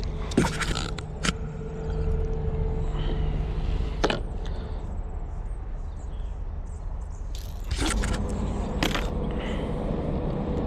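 Sharp knocks and scrapes, a few seconds apart, from handling a freshly caught bass and its lure in a plastic kayak, over a steady low rumble.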